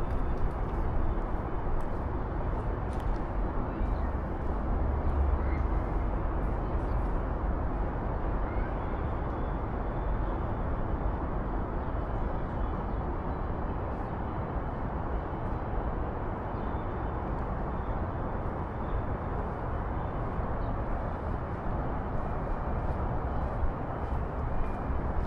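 Downtown street ambience: a steady hum of traffic with a low rumble that swells for a few seconds near the start, and faint distant voices.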